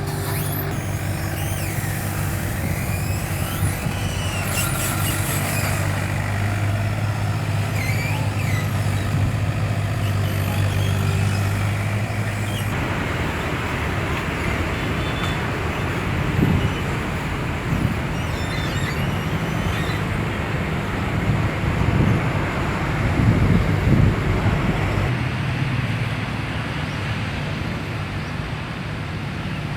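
Takeuchi TB225 amphibious mini excavator's diesel engine running steadily. About 13 seconds in, the steady engine note gives way to a rougher, noisier sound with a few louder surges.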